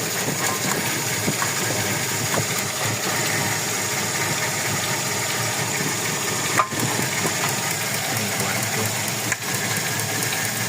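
Toyota Revo's 1RZ four-cylinder petrol engine running at idle with a misfire, which the mechanics trace to the number 4 injector. A single sharp click about six and a half seconds in.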